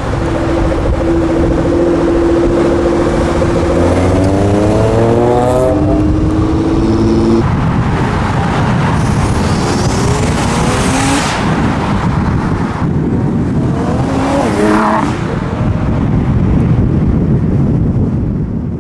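Car engine revving, its pitch climbing in several rises over a loud, steady rush of noise.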